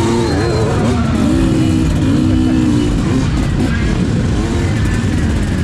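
Enduro dirt bike engines running and revving among a gathering of riders, with a held rev briefly standing out about a second and a half in, and voices in the mix.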